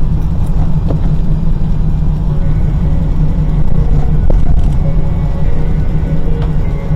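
Steady low rumble of a car being driven, engine and road noise heard inside the cabin.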